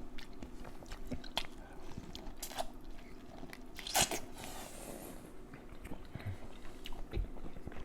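A person biting and chewing food close to the microphone: scattered crunches and wet mouth clicks, the sharpest about four seconds in.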